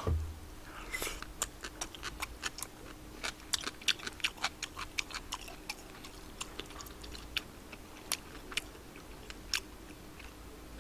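Close-miked chewing of spicy tteokbokki: irregular wet mouth clicks and smacks, a few a second, over a faint steady hum.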